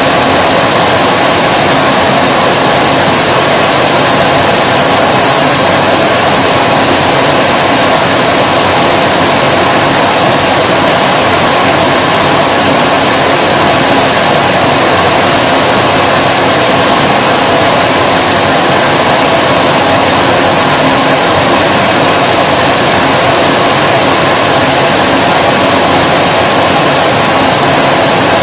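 Vacuum cleaner running steadily: a constant loud rushing hiss with a faint steady whine from its motor, unchanging throughout.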